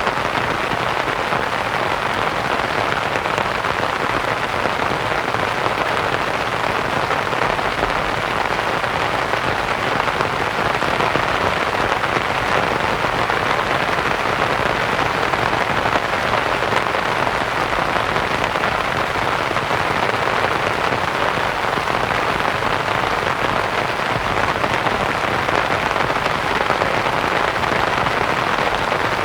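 Steady rain pattering on a canvas tent, blended with a soft white noise hiss.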